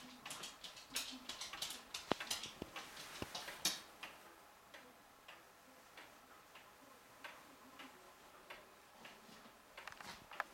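A run of small, sharp clicks and taps, close together and irregular for the first few seconds, then sparser and more spread out.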